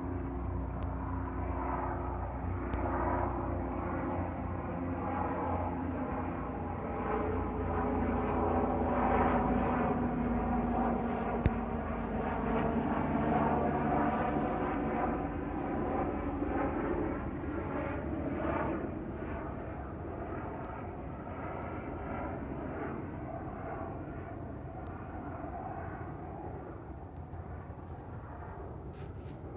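Bell 429 GlobalRanger twin-turbine helicopter flying past, with its rotor thump and turbine whine. The sound grows loudest in the middle as the pitch slowly shifts, then fades over the last several seconds as it moves away.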